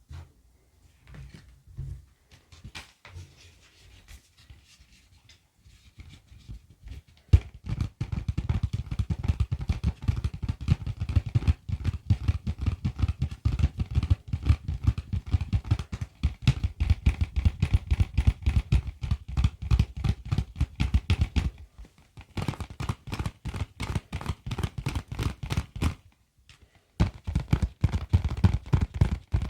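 Close-miked fast tapping: sparse and faint for the first several seconds, then dense and louder from about seven seconds in, with two short pauses near the end.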